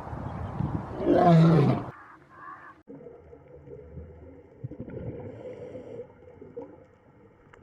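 A large animal gives one loud roar about a second long, falling in pitch. After it comes a quieter stretch with a faint steady hum and a few scattered small sounds.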